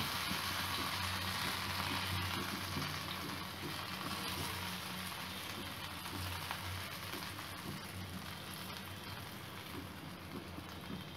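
Masala-battered okra pieces shallow-frying in oil on a flat iron tawa: a steady crackling sizzle that slowly gets quieter.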